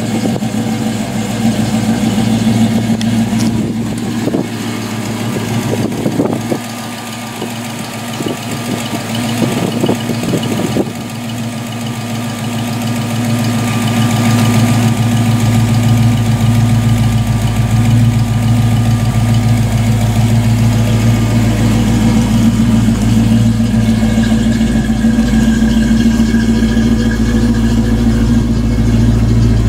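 Ford 5.0-litre V8 of a 1990 Mustang GT idling steadily, with a few knocks and rustles in the first ten seconds or so.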